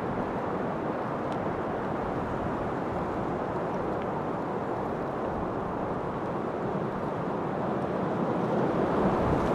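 Steady wind, a continuous low rushing that swells slightly near the end.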